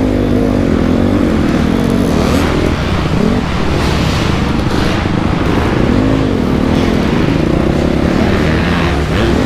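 2008 Honda CRF250R's single-cylinder four-stroke engine under way, its pitch rising and falling several times as the throttle is worked.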